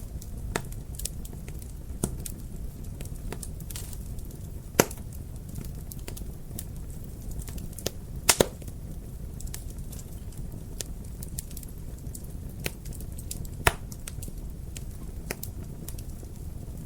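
Wood fire crackling in a fireplace: a steady low rumble of burning under scattered sharp pops. The loudest pops come about five seconds in, as a quick double about eight seconds in, and once more near fourteen seconds.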